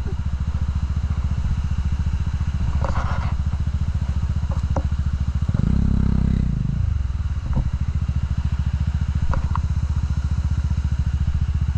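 Single-cylinder motorcycle engine idling with an even beat, blipped briefly to higher revs about halfway through, with a few light clicks.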